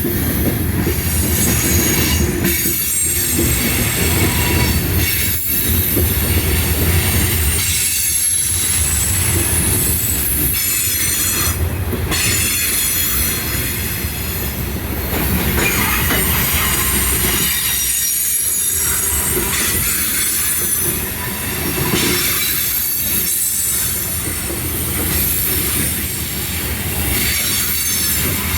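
CSX freight train cars rolling past, a steady heavy rumble with high-pitched wheel squeal over it, the sound dipping briefly every few seconds.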